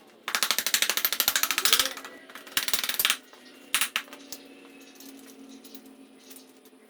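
Rapid metallic clicking in two fast runs, the first nearly two seconds long and the second about half a second, then a brief burst near four seconds in. It is the sound of a ratchet-type mechanism during work on the motorcycle's rear wheel.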